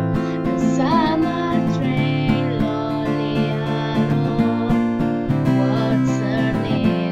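Music: an acoustic guitar strummed in a steady rhythm, with a wavering melody line over it.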